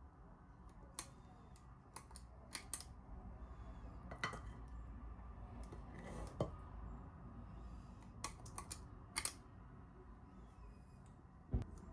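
Scattered light clicks and taps, about ten spread unevenly, from small objects being handled, with one louder knock near the end over a faint low hum.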